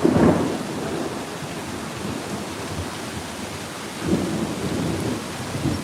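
Heavy rain pouring down steadily, with low rolls of thunder rumbling at the start and again about four seconds in.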